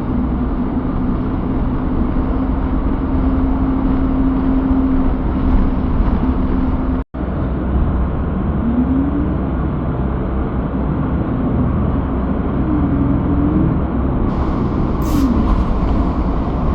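Road traffic and wind outdoors in a snowstorm: a steady loud rush with vehicle engine hum and passing cars whose pitch slides up and down. The sound cuts out completely for an instant about seven seconds in.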